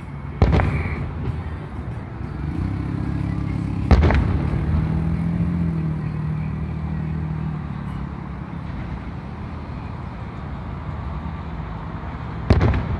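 Aerial firework shells bursting in three sharp booms, about half a second in, around four seconds in and near the end, each trailing off in an echo. Between the booms a passing vehicle's engine hums low, swelling and fading in the middle.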